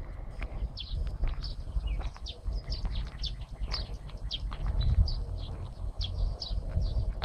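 Small birds chirping: many short, high chirps, several a second, over a steady low rumble.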